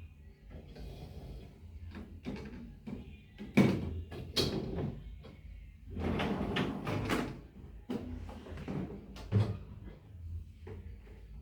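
Household handling sounds: a series of irregular knocks and bumps with rustling between them, like cupboard doors and objects being moved about.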